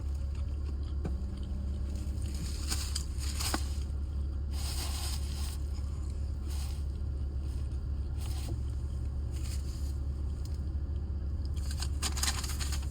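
Close-up chewing and crunching of a fried chicken sandwich, in scattered short bursts over a steady low hum.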